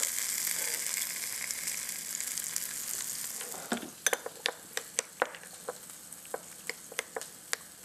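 Hot dogs sizzling in oil in a skillet, the sizzle fading after about three seconds. Then a metal spoon clinks irregularly against a small glass bowl while relish is stirred, about a dozen light clicks.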